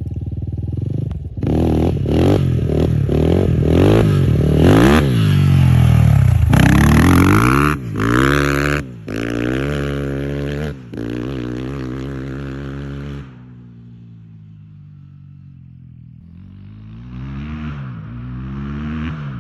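Kovi Lite 300 enduro motorcycle engine being revved. It starts with a string of quick throttle blips, then runs through long rising revs that break off sharply several times, drops to a low, quieter idle about two-thirds of the way through, and climbs again near the end.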